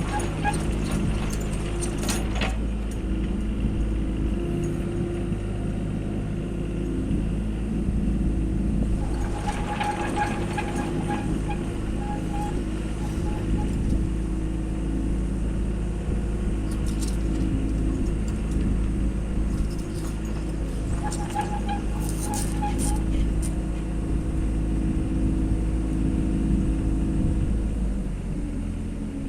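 A compact machine's engine running steadily. Three times it gives brief higher-pitched whines with small clicks: near the start, around ten seconds in, and around twenty-two seconds in, as the machine works to hold a tree branch.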